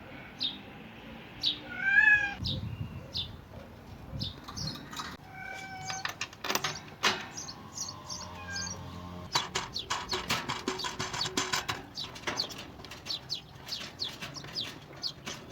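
Small caged birds calling and chirping: a louder pitched call about 2 s in, then a busy run of short high chirps mixed with quick clicks and flutters.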